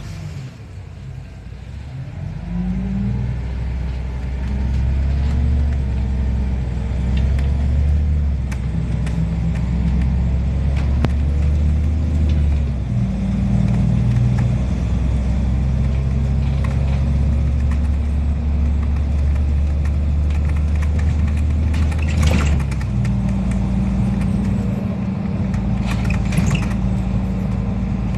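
NefAZ-5299 city bus engine heard from inside the bus as it pulls away and accelerates, its note rising and then stepping at gear changes about halfway through and again later on. A few short rattles from the bus body near the end.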